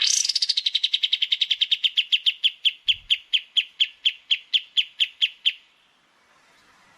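A small songbird singing a long rapid series of sharp, downward-sliding notes. They come fast at first, then settle to about five a second, and stop about five and a half seconds in.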